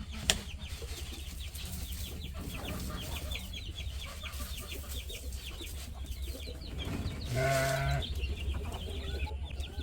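Young chicks peeping over and over in high, short chirps, with a mother hen giving one louder, longer call about seven seconds in.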